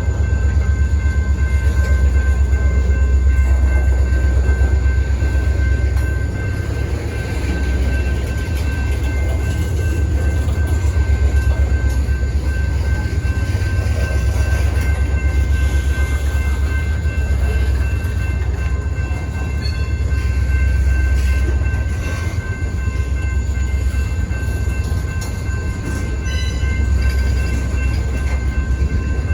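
Freight train rolling past with a loud, steady low rumble, and a few thin, steady high-pitched tones above it.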